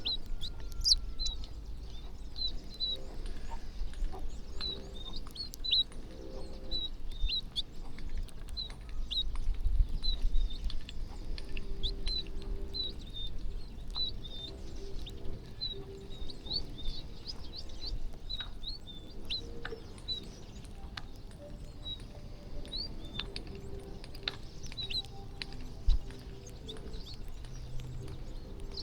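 A flock of small birds chirping busily while feeding, with short high chirps coming several times a second and some lower calls mixed in, over a low rumble.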